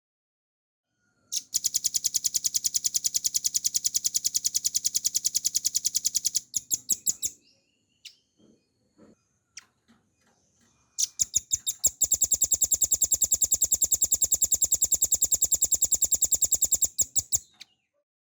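Velvet-fronted nuthatch (rambatan paruh merah) singing two long, rapid, even trills of about ten high notes a second, each lasting five to six seconds, with a few soft single notes in the pause between them.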